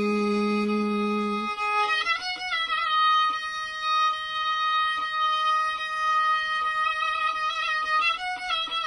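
Turkish meyhane song: a singer holds the last word "benim" for about a second and a half, then a violin takes over with a long sustained high note decorated with small turns. Faint crackles of a fireplace tick underneath.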